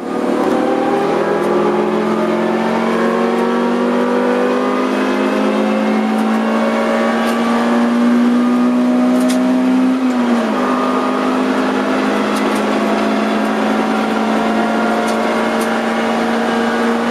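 Honda CR-X EE8's 1.6-litre VTEC four-cylinder engine, heard from inside the cabin, running hard at high revs down a straight. Its pitch climbs slowly for about ten seconds, dips briefly, then holds steady, with a few faint ticks over the top.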